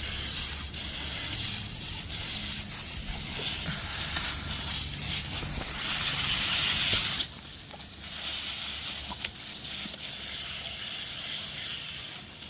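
Water spraying from a garden hose in a steady hiss, loudest about six seconds in, then dropping off abruptly about seven seconds in.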